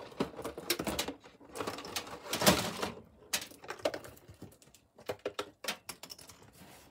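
Objects being handled and shifted about: irregular light knocks, clicks and rustling, with one louder knock about two and a half seconds in.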